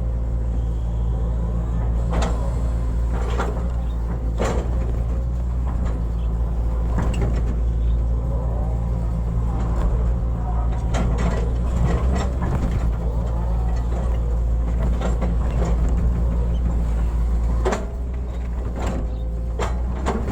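Hitachi hydraulic excavator working: its diesel engine runs steadily under load, with scattered clanks and knocks from the digging. The engine eases off about three seconds before the end.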